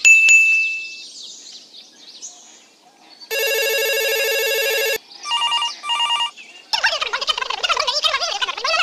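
A bright ding that fades over about a second, then a steady buzzing ring lasting under two seconds and two short electronic beeps. These are followed by a dense, continuous chatter of many gobbling fowl calls, like a flock of turkeys.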